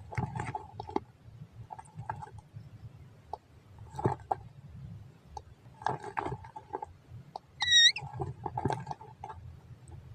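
Hungry birds calling: repeated short, scratchy chirps, with one clear whistled note a little under eight seconds in that is the loudest sound.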